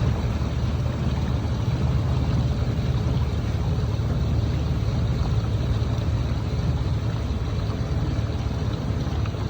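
A tour boat's motor running steadily underway, a constant low drone with a haze of water and wind noise over it.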